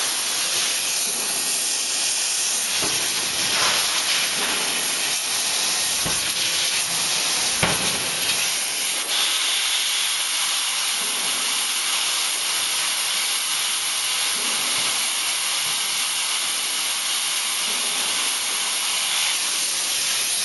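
A 63 kJ CNC hydraulic die forging hammer at work: a steady loud hiss throughout, broken by a few heavy blows, the clearest about 3.5 and 7.5 seconds in.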